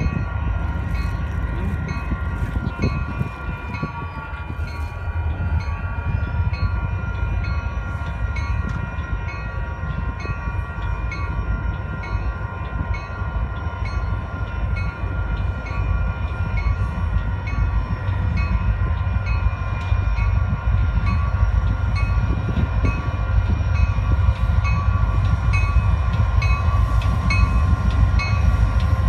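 A train rolling by with a heavy, steady low rumble. Steady high-pitched ringing tones sit above it, with a faint regular ticking.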